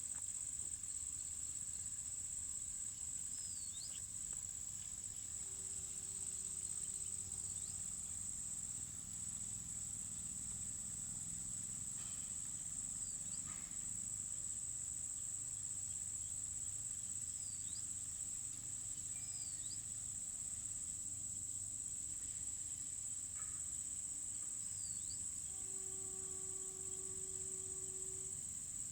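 A steady, high-pitched insect chorus that runs on without a break, with a few brief faint chirps over it.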